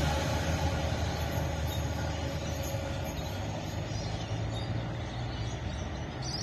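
Queensland Rail Tilt Train running away down the line, its low rumble slowly fading as it recedes.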